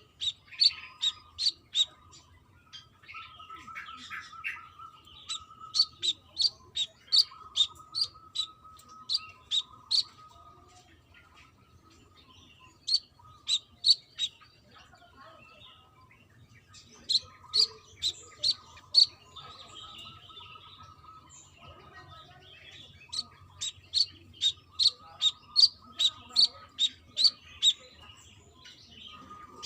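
Brown-throated sunbird calling: runs of sharp, high chips, about two or three a second, broken by short pauses, over a faint steady lower trill.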